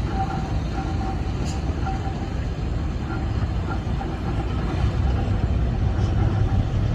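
Heavy diesel earthmoving machinery running with a steady low rumble that grows a little louder near the end.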